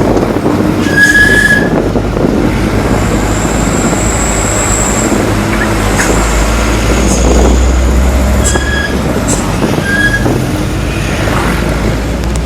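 Steady low vehicle rumble with several short, high-pitched squeals.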